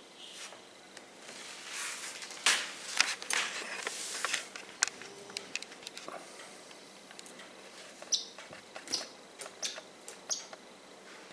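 Small pet birds making short, high squeaky chirps, several of them in the second half, with a cluster of sharp clicks and rustling, like pecking and scrabbling, about two to five seconds in.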